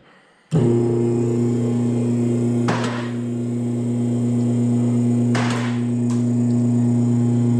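Mower lift's motor running steadily at one pitch as it raises a zero-turn mower, starting about half a second in, with three short hissing swells over the hum along the way.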